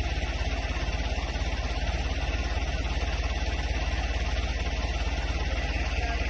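Tractor engine running steadily at constant speed, an even low throb.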